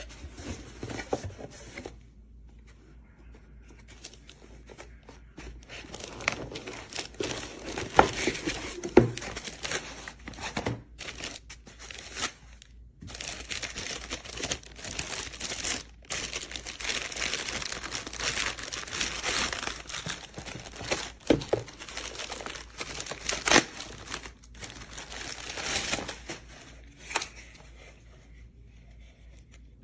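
Packaging being crinkled and torn by hand, in irregular rustling stretches with sharp handling clicks and knocks.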